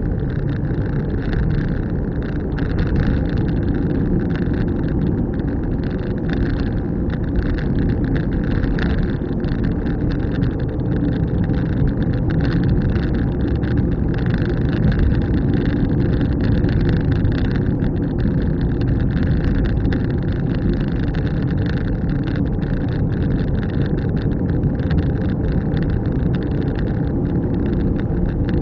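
Car being driven at a steady pace: a continuous low rumble of engine and tyre road noise.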